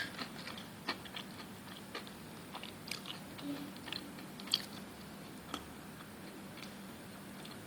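Someone eating and chewing, with scattered light clicks and crunches that stop about six seconds in.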